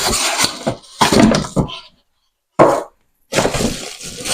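Cardboard and plastic packaging being handled, with irregular rustling, scraping and knocking as an air fryer's box is opened and emptied. The sound breaks off twice for a moment, near the middle.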